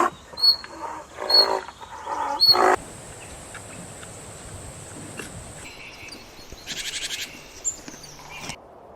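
An animal calling: three loud calls, about a second apart, in the first three seconds, then quieter sounds until the audio cuts off abruptly near the end.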